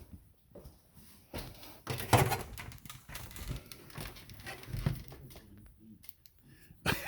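Irregular rustling, scraping and knocks of Cat 5 cable being fished and pulled through a wall.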